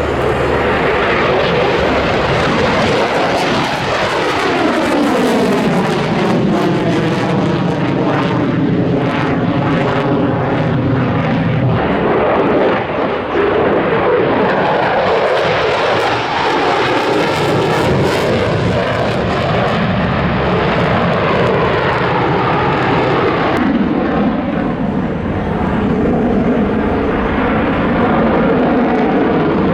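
Propeller airplane flying past with its engine running loud, the pitch dropping as it goes by, then engine sound carrying on.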